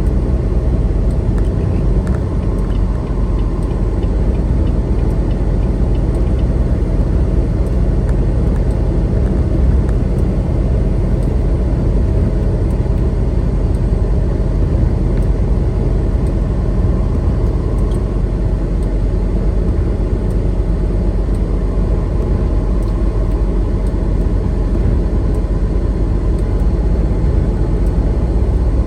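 Semi-truck cab while driving: a steady low rumble of engine drone and road noise.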